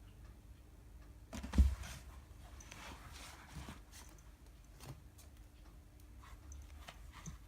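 A cat moving about in a cloth pet uniform: a single low thump about one and a half seconds in, then soft rustling and a few faint clicks.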